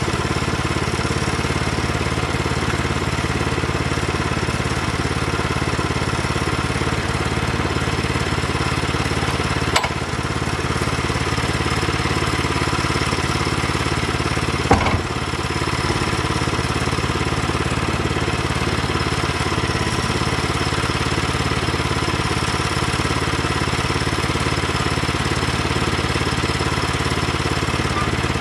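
An engine running steadily at an even speed, with two short sharp knocks about ten and fifteen seconds in.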